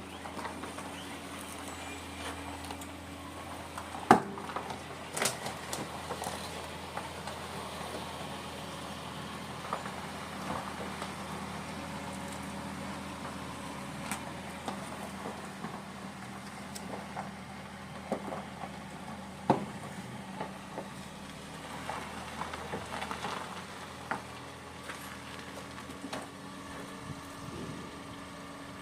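A steady low motor hum, with a few sharp knocks on top of it; the loudest knocks come about four seconds in and about twenty seconds in.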